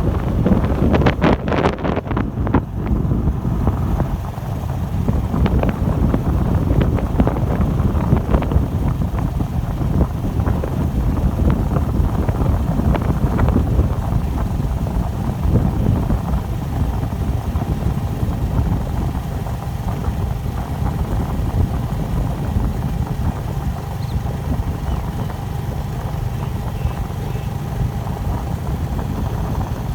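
Wind buffeting the microphone during a bike ride along a road: a steady low rumble, with a burst of rattling clicks in the first few seconds.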